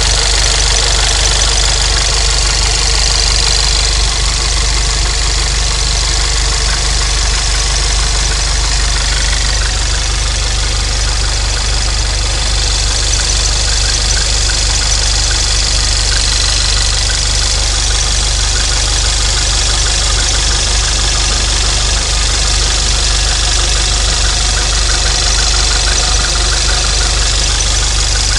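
Volkswagen Scirocco engine idling steadily, with no revving.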